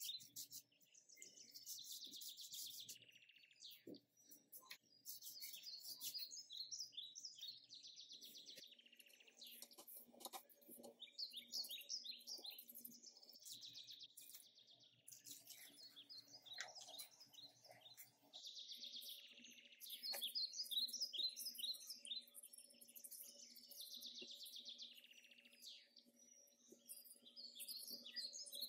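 Small birds chirping and twittering in quick, repeated phrases, with a faint low steady hum underneath.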